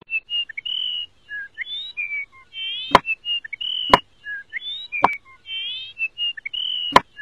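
Birdsong of short whistled notes and chirps, the same phrase coming round again about every four seconds. Four sharp knocks sound over it, about a second apart, near the middle and end.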